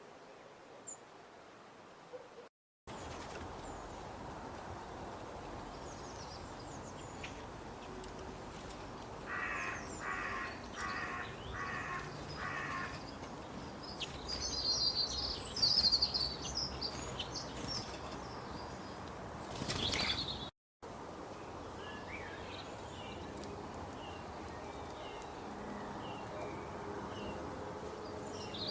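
Mixed outdoor birdsong over a steady background hiss. About ten seconds in, a crow caws five times in quick succession, followed by bursts of high chirping from small birds and later small repeated chirps. The sound drops out to silence twice, briefly, where recordings are spliced together.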